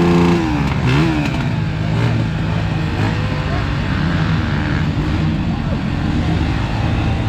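Motocross dirt bike engines revving. One engine's pitch falls away about a second in as it backs off, then bikes keep running steadily under a noisy background.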